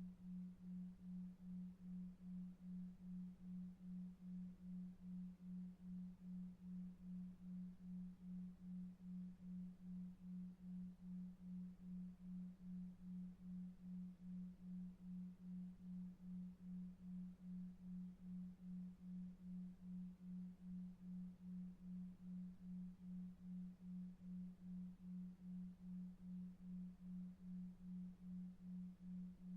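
A low, faint, pure tone pulsing evenly about two and a half times a second: a 2.5 Hz delta-wave pulse tone for sleep.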